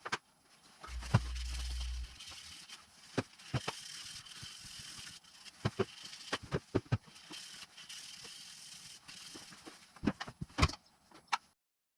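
Scattered clicks, knocks and light rattles, typical of small metal parts and tools being handled during engine assembly, with a short low rumble about a second in.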